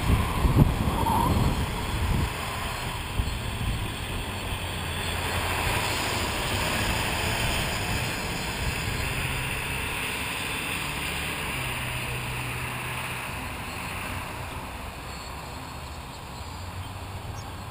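Strong wind buffeting the microphone in heavy gusts, over the steady whir of a large quadcopter's motors and 14-inch propellers. The gusts are heaviest in the first couple of seconds, then the sound slowly eases.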